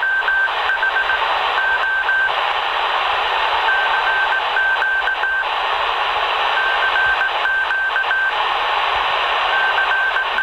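Morse code (CW) signal on a ham radio HF receiver: a single steady beep keyed on and off in short groups of dots and dashes that repeat every few seconds, over a constant hiss of receiver static.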